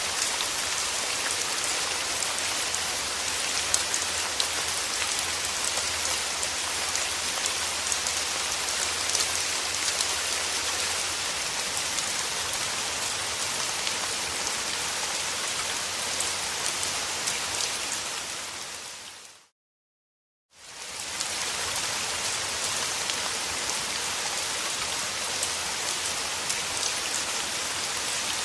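Steady rain falling, a dense hiss of drops. About two-thirds of the way through it fades out to a second of silence, then comes back.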